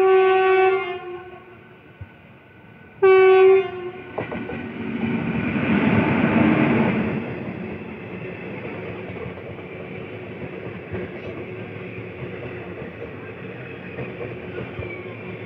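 Passenger express train's electric locomotive sounding its horn in two short blasts about three seconds apart, then passing close by with a loud swell of noise about six seconds in, followed by the steady rumble of passenger coaches rolling past.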